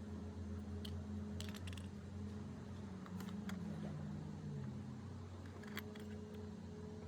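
50cc GY6 scooter engine running steadily, its pitch dipping for a moment about four seconds in, with a few sharp clicks over the top.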